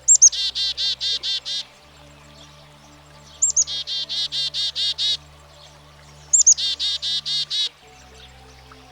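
Black-capped chickadee giving its chick-a-dee call three times: each call is two high, thin opening notes followed by a quick run of about eight lower, repeated "dee" notes. Soft background music runs underneath.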